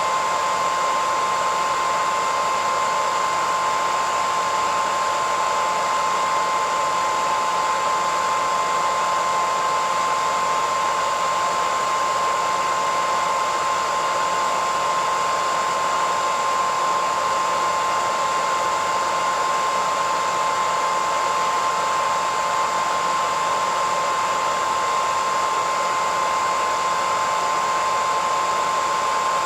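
Hair dryer running steadily: an even rush of blown air with a steady whine in it.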